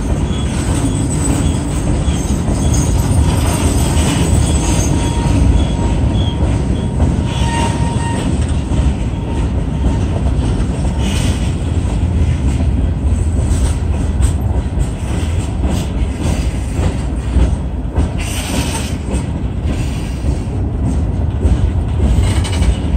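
Long freight train of open-top hopper cars rolling past close by: a steady heavy rumble of steel wheels on the rails, with a faint high wheel squeal in the first several seconds and sharp clanks and rattles from the cars in the second half.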